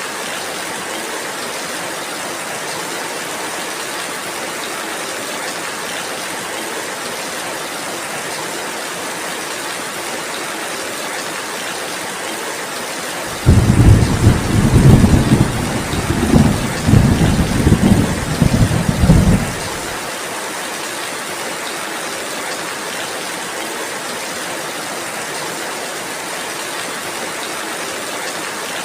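Steady rainfall with a loud, deep rumble of thunder that starts suddenly about halfway through and lasts about six seconds.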